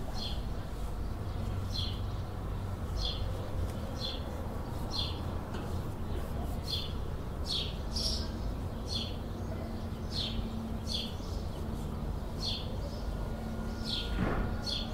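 A bird repeating a short, high chirp about once a second, over a low, steady background rumble.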